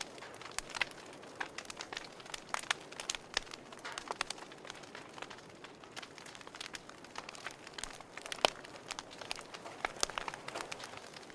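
Wood fire crackling in a fireplace: irregular sharp pops and snaps over a soft steady hiss, with one louder pop about eight and a half seconds in.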